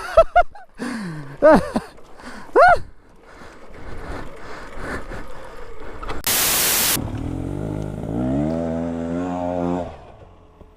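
Brief vocal exclamations, then a short loud rush of noise. After that a motorcycle engine runs and revs up, its pitch rising, before cutting off about ten seconds in.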